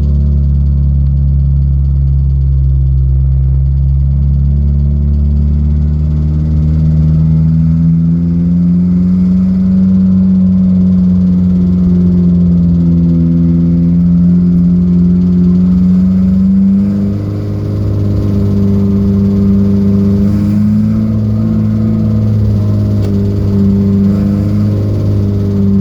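Datsun B210's four-cylinder engine pulling hard at speed, its pitch climbing over the first several seconds, then holding high with a short dip in loudness a little past the middle.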